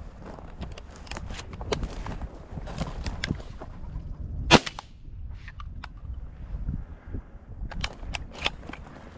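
A single 20-gauge shotgun shot about halfway through, amid scattered crunching footsteps through dry field cover.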